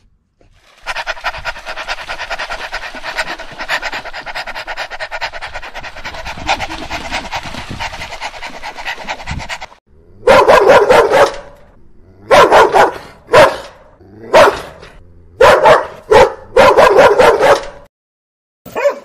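A dog vocalizing: a steady, rapidly pulsing high whine for about nine seconds, then loud barking in about six bursts of about a second each.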